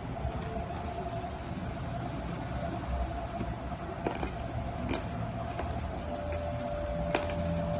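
A steady background hum with a faint held tone, broken by a few sharp clicks or crunches, about four seconds in, five seconds in and near the end.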